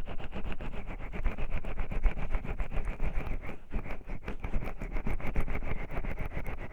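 Oiled hands rubbing and massaging over a 3Dio binaural microphone's ears: a close, continuous run of quick, slick rubbing strokes.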